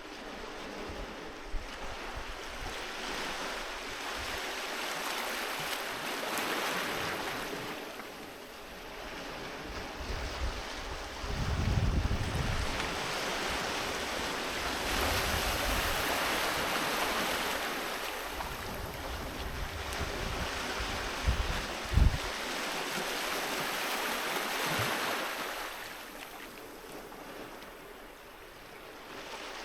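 Sea waves breaking and washing up a beach, in slow surges that rise and fade about every eight to ten seconds. Wind bumps the microphone with low thuds twice, the louder one about two-thirds of the way in.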